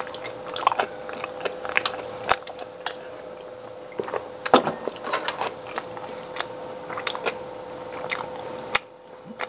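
Close-miked chewing of food: irregular mouth clicks, with a few sharper ones about four and a half and nine seconds in, over a faint steady hum.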